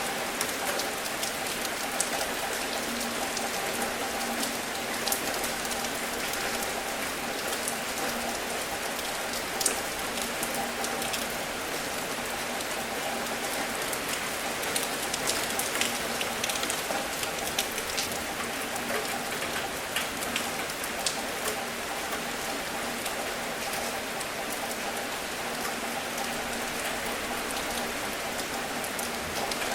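Steady rain: a continuous hiss with many sharp drop ticks landing on a surface.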